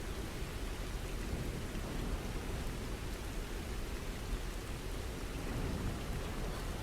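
Steady rainfall: an even, continuous hiss of rain with no separate drops standing out.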